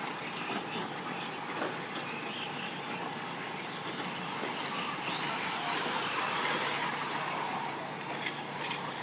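Radio-controlled 4WD short course trucks racing on a dirt track: a steady whirring hiss of several small motors and tyres, swelling a little about halfway through.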